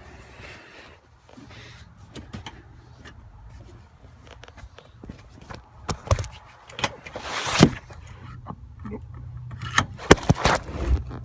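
Knocks, clicks and rubbing of a phone being handled and set down on a seat, with a loud scrape about seven and a half seconds in and a few sharp knocks near the end.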